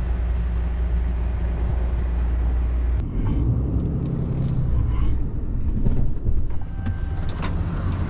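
Vehicle engine running steadily. About three seconds in, the sound shifts and scattered knocks and rattles come in over the engine.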